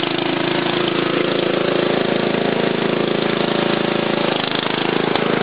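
Craftsman lawn tractor's 12.5 horsepower engine running steadily as the tractor is ridden, easing slightly for a moment about four seconds in.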